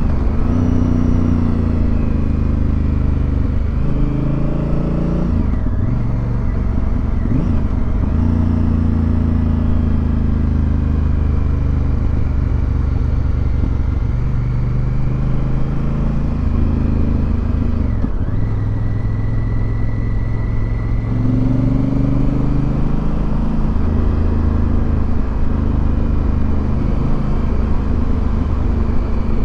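Heavy motorcycle engine running on the move, its note falling and rising several times as the rider works the throttle and gears through a run of bends.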